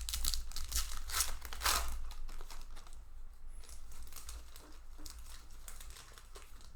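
Magic: The Gathering booster pack wrapper crinkling and tearing as the pack is opened, loudest in the first two seconds, then quieter rustling.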